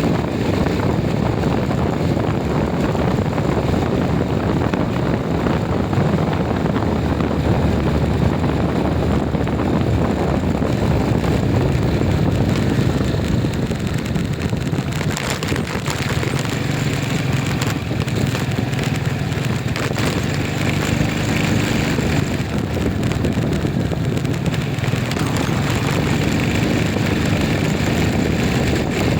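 Steady engine and road noise of a moving vehicle, with a faint engine hum coming through in the second half.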